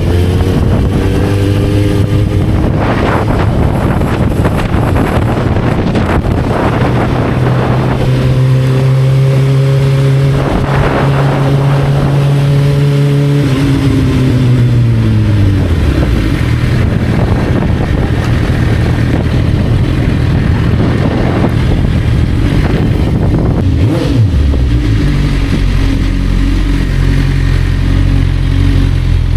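Motorcycle engine running while riding. Its note rises in the first couple of seconds, holds, drops about halfway through, then settles lower, over a dense rushing noise.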